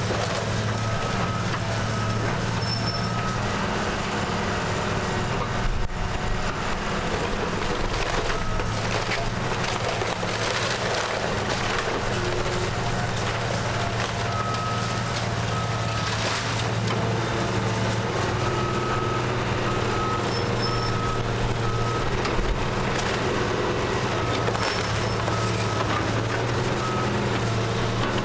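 House demolition: a heavy machine's engine running steadily while wood splinters and cracks as the structure is torn down, with a backup alarm beeping in runs.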